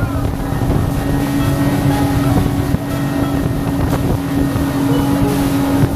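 Motorboat engine running steadily under way, a constant drone, with wind buffeting the microphone.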